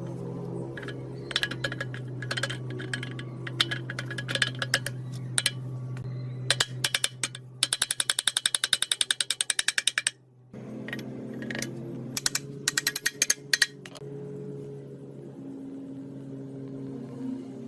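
Metal clicks and clinks from hand-tool work on diesel engine parts. Near the middle comes a fast, even run of clicks lasting about two seconds, all over a steady low hum.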